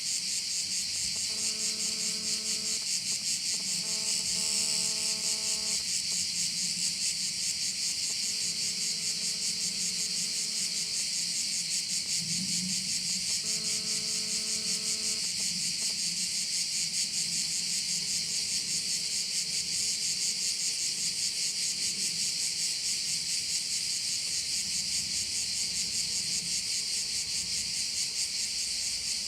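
Dense, steady chorus of shrilling insects, which the uploader calls crickets, pulsing fast and high-pitched without a break. A faint steady tone with overtones sounds four times in the first half, each lasting one to three seconds.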